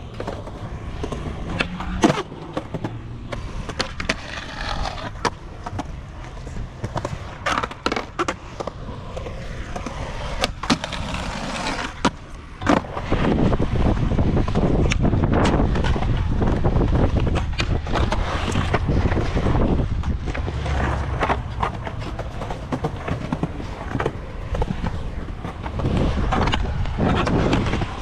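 Skateboard wheels rolling, with sharp clacks of the board popping and landing scattered throughout. The rolling gets louder about halfway through.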